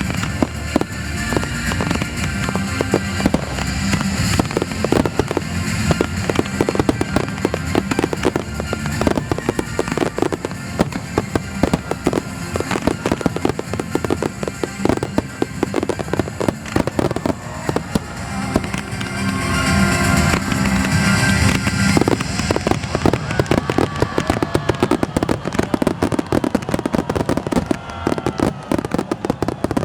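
Fireworks finale barrage heard at close range: a dense, unbroken run of booming shell bursts and crackling, at its loudest about two-thirds of the way through.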